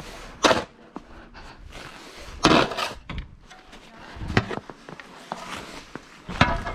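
Snow shovel scraping through and tossing snow, a short scrape about every two seconds.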